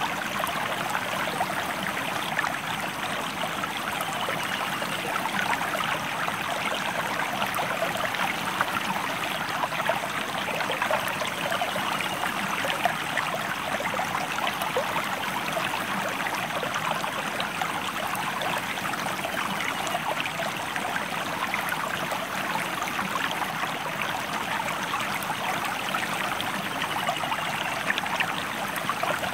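River water flowing steadily, a dense, even rush of small splashes with no let-up.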